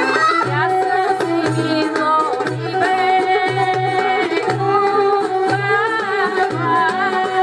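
Bulgarian folk dance music for a pravo horo: a steady low drum beat under a quick, ornamented melody.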